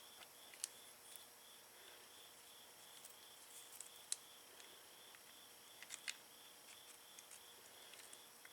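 Near silence: a faint insect, likely a cricket, chirping steadily about three times a second, with a few small sharp clicks about half a second, four and six seconds in.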